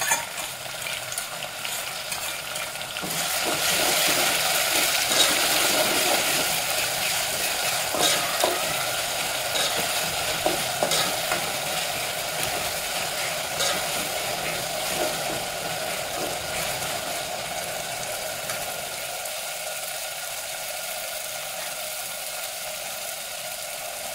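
Sliced onions with ginger-garlic paste sizzling in hot oil in an aluminium pot, stirred with a steel spoon that scrapes and clicks against the pot. The sizzle swells about three to four seconds in, then slowly dies down.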